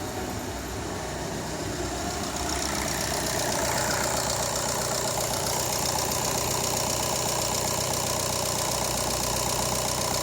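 VW Golf Mk7's EA288 TDI diesel engine idling steadily with its new timing-belt tensioner roller, with no squeal from the belt drive. It gets louder about three seconds in.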